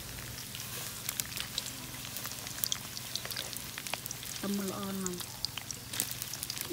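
Hotdogs sizzling and spattering in hot oil in a metal wok, a steady hiss full of crackles, with a metal spatula clicking against the pan as they are stirred in the second half. A short voice sound about four and a half seconds in.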